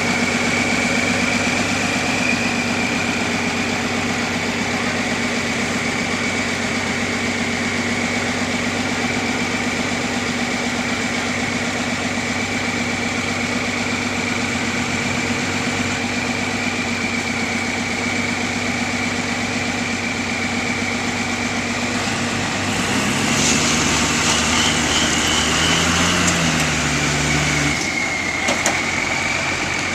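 A heavy vehicle engine idles steadily with a high, constant whine above the running. About three-quarters of the way through it revs up and the whine rises for some five seconds, then it falls back to idle.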